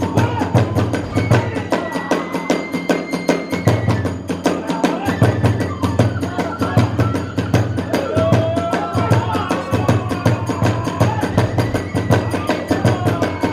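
Kagura hayashi ensemble playing fast, steady, driving rhythm: taiko drum strokes with clashing small hand cymbals, and a bamboo transverse flute (fue) playing a wavering melody above them.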